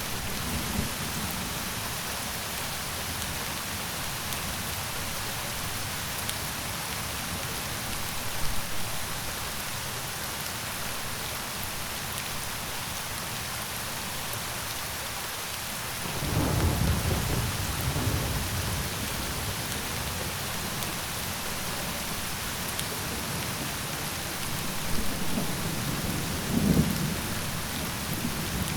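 Steady heavy rain falling, with low rolling thunder rumbling in about halfway through and again near the end.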